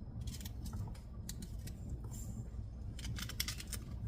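Clusters of light clicks and rattles of kitchen handling, several short runs spread through the few seconds, over a steady low rumble.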